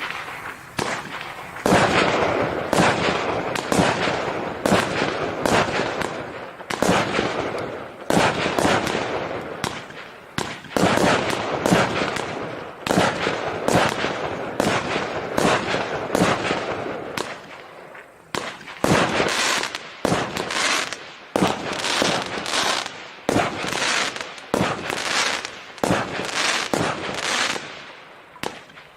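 TKB388 "8 Марта" 88-shot fireworks cake with 20 mm tubes firing in a steady volley: sharp shots about one to two a second, each trailing off before the next, with a brief lull about two-thirds of the way through.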